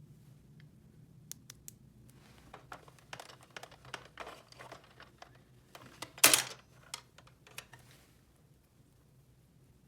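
Small plastic toy pieces handled and clicked together: a run of light clicks and rustles, with one louder crackling burst about six seconds in.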